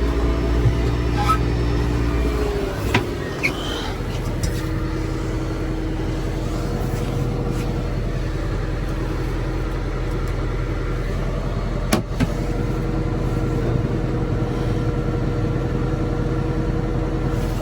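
John Deere 5085M tractor's diesel engine running steadily under load, heard from inside the cab. Its note shifts about three seconds in, and there is a sharp click about twelve seconds in.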